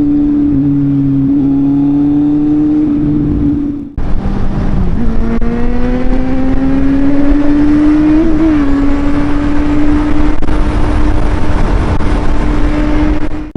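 Kawasaki Z800's inline-four engine running at road speed under the ride's wind noise, its pitch held steady, then, after an abrupt cut about four seconds in, slowly rising as the bike pulls in gear.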